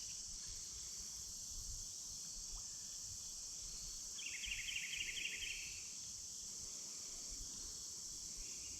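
Steady high-pitched chorus of late-season insects, with a brief rapid pulsing trill from about four to six seconds in.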